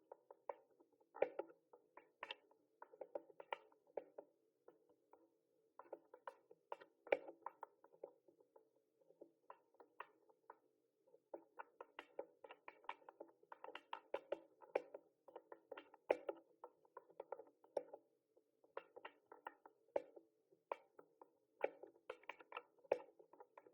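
Typing on a mechanical keyboard: quick, irregular runs of key clicks, broken by a few short pauses.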